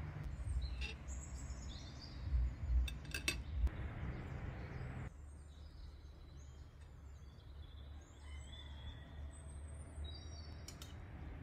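Birds chirping over a steady low outdoor rumble, with a few light clinks near the start, in the middle and near the end.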